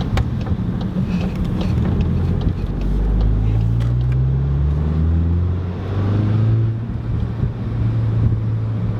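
Volkswagen Golf MK8 GTI's 2.0-litre turbocharged four-cylinder breathing through an X-Force aftermarket exhaust, heard from inside the car in comfort drive mode. The engine note rises in pitch as the car accelerates from about three to six seconds in, then settles to a steady cruise with very little drone.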